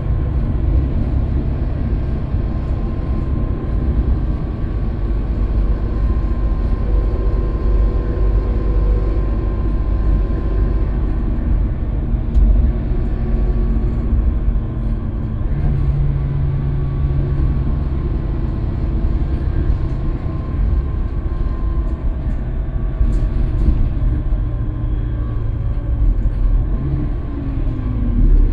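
Scania K320UB bus running under way, a steady low engine drone with road noise; the engine note steps up a little about halfway through.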